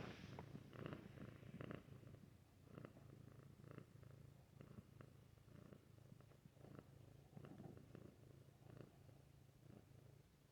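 Domestic cat purring softly, a low steady purr that swells and eases gently, with faint scattered ticks.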